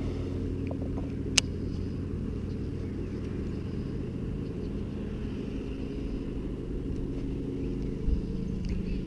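A steady low mechanical hum, like a running engine or motor, with one sharp click about a second in.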